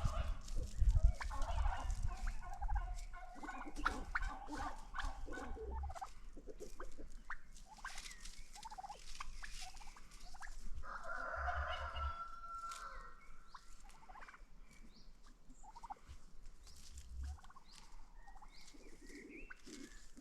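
Bird calls: bursts of rapid, rattling calls in the first few seconds and again about eleven seconds in, with scattered shorter calls between.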